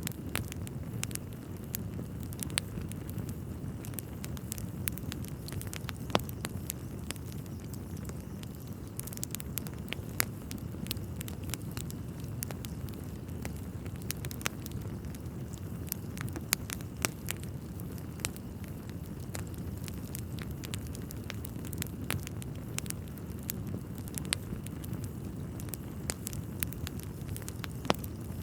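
Wood fire burning in a fireplace: frequent sharp crackles and pops over a low, steady rumble.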